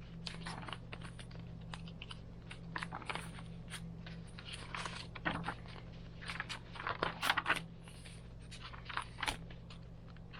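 Paper pages of a handmade junk journal being turned and handled: a run of short crinkles and rustles, busiest about five to eight seconds in.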